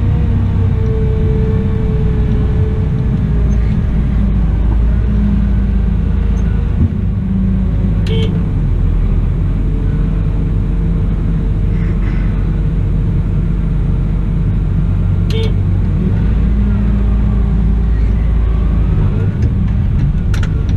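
Cat 972M XE wheel loader's diesel engine running steadily under work, its pitch drifting slowly up and down, with two short clicks partway through.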